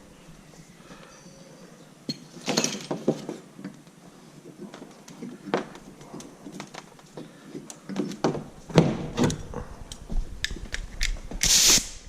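Scattered metallic clicks and knocks of handling, then near the end a loud half-second burst of compressed air from an air blow gun, as used to blow debris out of a tractor's radiator.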